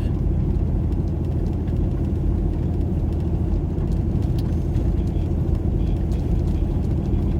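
Steady low rumble of a car driving on a snow-covered road, heard from inside the cabin: engine hum with tyre and road noise.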